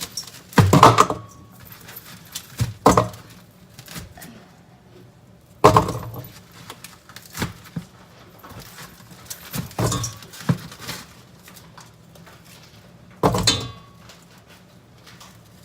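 Kitchenware clattering: dishes, pans and utensils knocked and set down several times, a few seconds apart.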